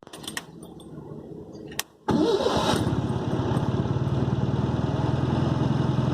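Fiat 147's four-cylinder engine being started: a few faint clicks and a short burst, then the engine catches about two seconds in and settles into a steady idle.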